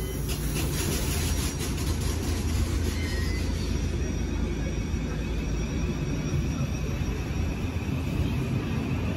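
Thameslink Class 700 electric multiple unit running along the platform, a steady rumble of wheels on rails, with light clicks during the first couple of seconds.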